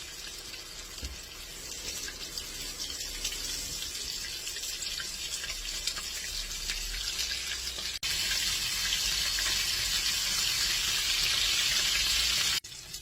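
Breaded bacon frying in hot grease in a skillet: a steady sizzle with small crackles. It jumps louder abruptly about eight seconds in and cuts off suddenly just before the end.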